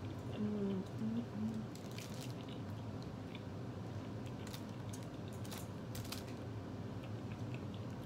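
Close-miked eating sounds: a person chewing soft honey bun with wet mouth clicks and smacks. A short hummed "mm" comes about half a second in.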